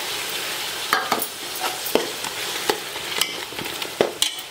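Ginger-garlic paste frying in hot oil in a metal pot, sizzling steadily while a metal spoon stirs it. The spoon clinks and scrapes against the pot several times.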